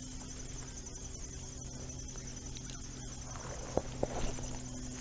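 Insects trilling steadily, with a steady low hum underneath. A few small clicks and a short rustle about four seconds in.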